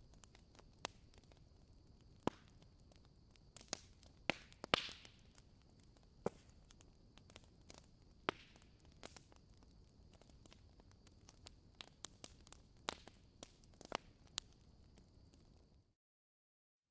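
Wood fire crackling in a fireplace: irregular sharp pops and snaps of burning firewood, the loudest cluster about four to five seconds in. The sound cuts out completely just before the end.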